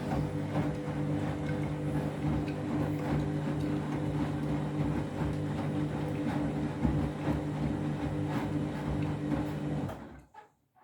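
Candy washing machine on its final deep rinse with a half load, the drum tumbling the wash: a steady motor hum under a noisy wash sound with irregular knocks. It cuts off abruptly near the end.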